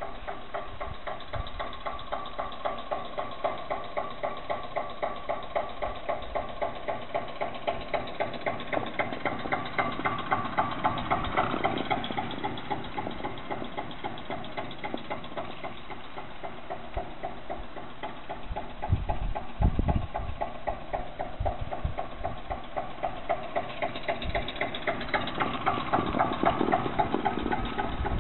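Recorded old diesel tractor engine sound played through the homemade electric tractor's sound system: an even chugging idle that picks up speed and gets louder twice. There are a few low thumps a little past the middle.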